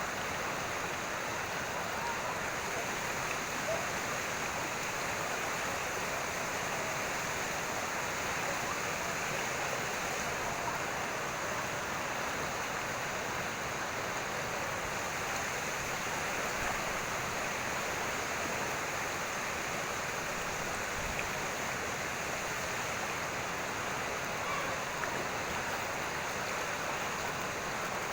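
Flowing water rushing steadily and without a break, the even sound of a stream or small cascade.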